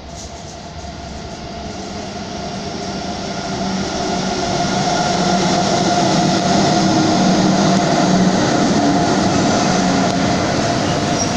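Interior running noise of an ICE 4 high-speed train under way: a steady rumble with a held electrical hum, growing louder over the first few seconds and then steady.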